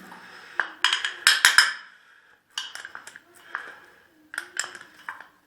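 Sharp metallic clinks and knocks of small-engine parts being handled and tapped, a quick cluster of them about a second in, then lighter scattered clicks.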